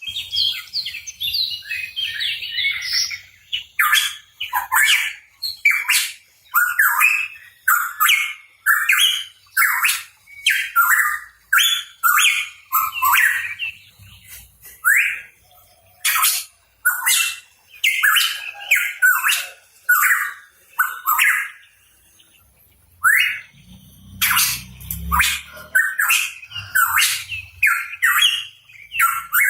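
A pitohui calling over and over in short, sharp phrases, about one a second, with a pause of a couple of seconds a little past the middle.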